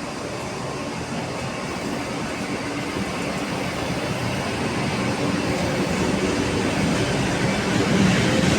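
Train running along the tracks, a steady rumble and rushing noise that grows gradually louder as it approaches.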